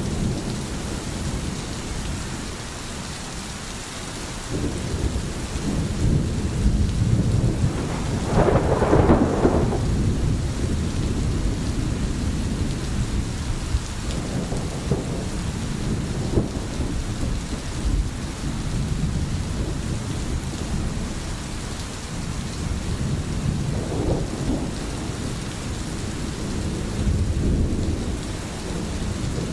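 Steady rain with low, rolling thunder, which swells loudest about a third of the way in.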